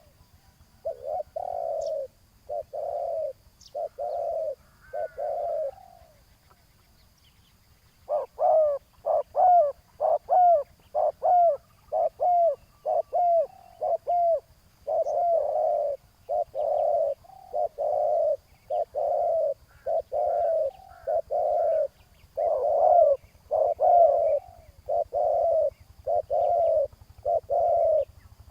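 Spotted doves cooing: a long series of short coos, about one a second. The calling breaks off for about two seconds, then comes back quicker with sharper, rising notes before settling into steady cooing again.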